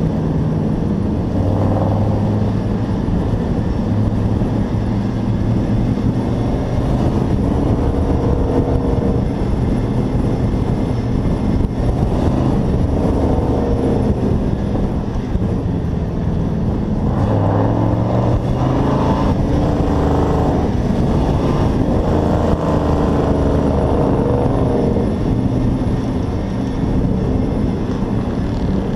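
Hobby-class race truck's engine heard from onboard at racing speed, its pitch repeatedly falling and rising as the driver lifts off and gets back on the throttle, over a steady rush of wind and road noise.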